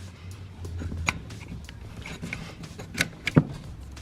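A few sharp clicks and knocks of metal parts and tools being handled in a car's engine bay: one about a second in and two in quick succession near three seconds in.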